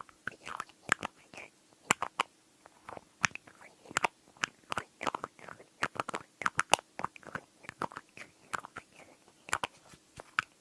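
Quick, irregular tapping on glass at close range: sharp clicks several times a second, some with a short ring.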